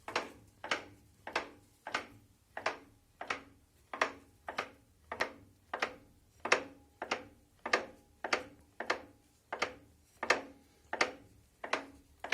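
Knocking from inside a Renault Megane 2's DP0 automatic gearbox as a raised front wheel is spun by hand: a sharp metallic knock about one and a half times a second, once per turn of the wheel. It is the knock that shows on pulling away and braking, which the owner reads as the gearbox being finished.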